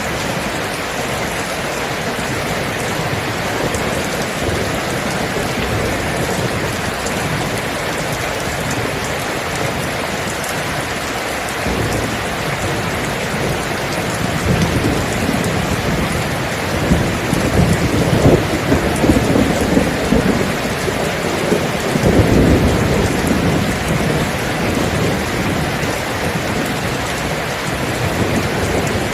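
Steady rain falling, with a long roll of thunder rumbling in about twelve seconds in. The thunder is strongest around eighteen to twenty-three seconds in, then fades back under the rain.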